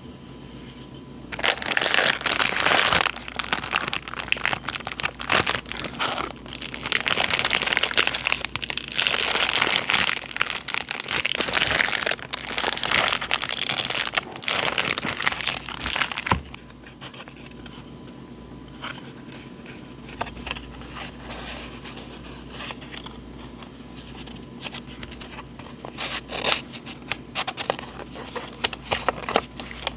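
Packaging crinkling and rustling as a parcel is unwrapped by hand, loud in several long bursts over the first sixteen seconds or so. After that, quieter handling with scattered light rustles and taps.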